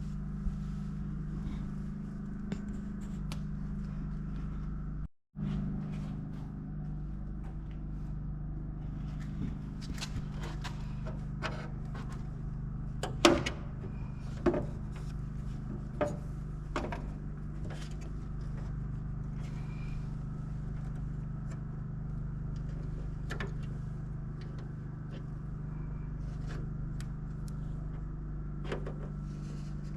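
A steady low mechanical hum, like an engine or motor running, broken off for a moment about five seconds in. Over it, a scattered series of sharp clicks and snaps from hand work with tools and wire falls partway through, the loudest about halfway.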